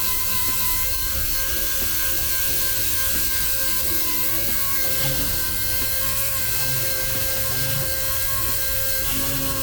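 A handheld power tool running steadily with a constant high whine and a fine rattle, as in grinding or sanding down a plastic bumper.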